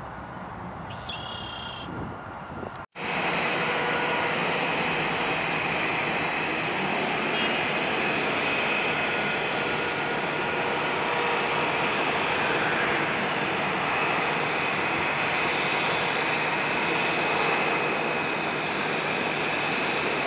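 Jet airliner engines running loud and steady, a plane close by at the airport. The noise starts abruptly about three seconds in, after a quieter stretch with a few short chirps.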